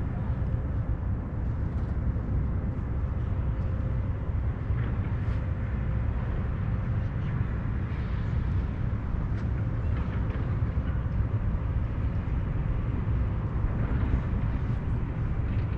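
Steady low rumble of outdoor wind buffeting the microphone, with a faint steady hum in the first half.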